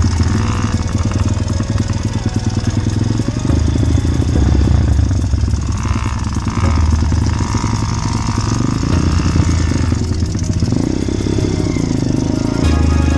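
Yamaha PW50 minibike's small two-stroke single-cylinder engine running.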